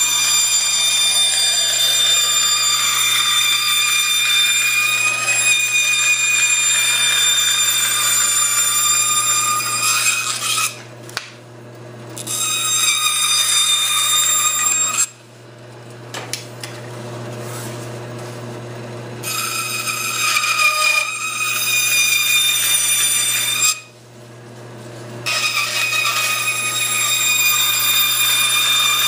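Electric power tool running at high speed and cutting wood for a bulkhead, a steady high whine that stops briefly three times and starts again.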